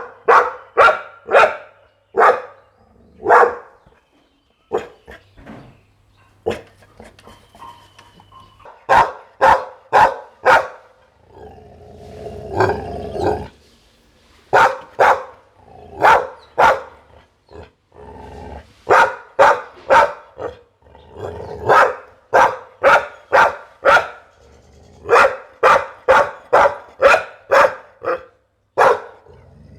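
Pit bull barking loudly in runs of several barks, about two a second, with short pauses between runs. About twelve seconds in there is a longer, rougher, lower stretch of about two seconds.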